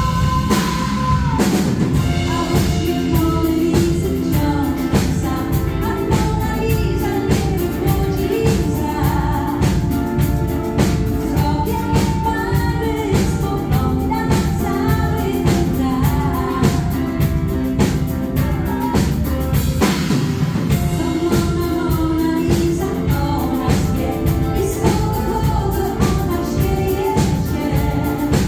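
Live pop band playing a song, with a woman singing the lead melody over drums keeping a steady beat.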